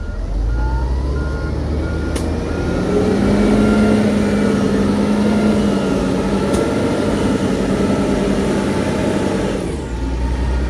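Heavy construction machine's diesel engine revving up and pulling steadily under load, with a reversing alarm beeping rapidly and evenly. The engine eases off about a second before the end, and two sharp clicks come through partway.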